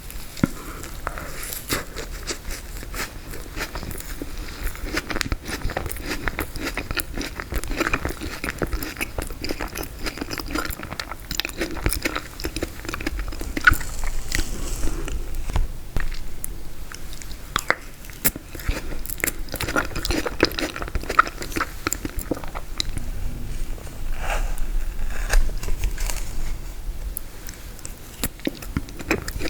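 Close-miked eating of frozen tiramisu: continual chewing with sharp, irregular crunches and crackles as the icy cake and ladyfinger layers are bitten through.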